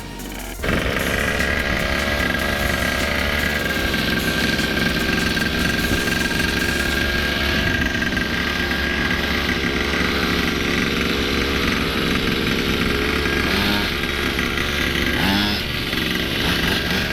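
Motorcycle engine running steadily. It comes in abruptly just under a second in.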